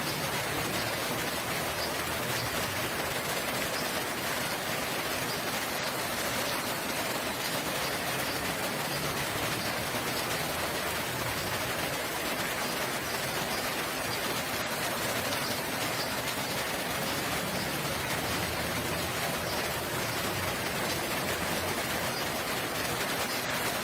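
Steady rain falling, an even hiss that holds level throughout with no breaks.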